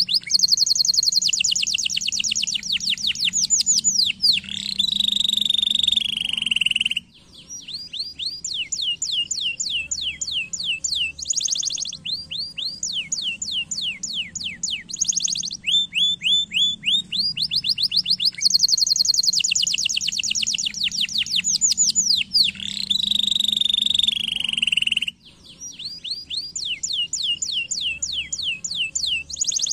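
Domestic canaries singing: fast, high-pitched trills of repeated downward-sweeping notes, switching to a new trill every second or two. Near the end of the first third the song stops briefly, then restarts, and the same run of trills comes round again about 18 seconds later, as in a looped training recording.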